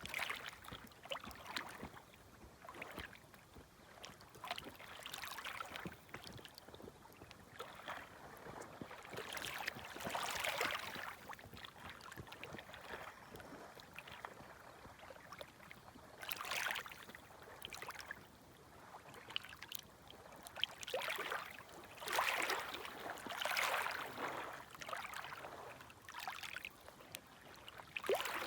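Small, gentle waves lapping at the shore in irregular washes and splashes, with louder washes about ten seconds in, around sixteen seconds, and again through the last third.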